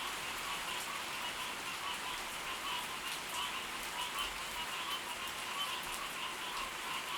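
Steady rain falling, with scattered drops ticking close by, over a chorus of frogs calling in repeated pulses.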